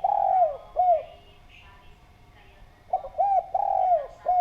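Spotted dove (derkuku) cooing: a phrase of hooting coos ends about a second in, then a second full phrase of about four coos, the middle one longest, starts about three seconds in.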